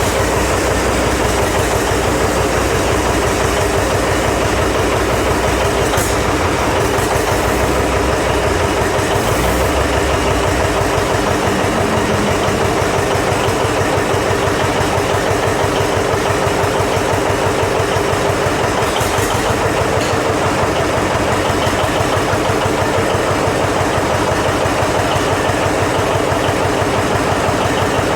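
The gasoline pony starting motor of a John Deere 720 diesel running steadily, spinning the big two-cylinder diesel over without fuel so that it builds oil pressure. The deepest rumble drops away about eleven seconds in.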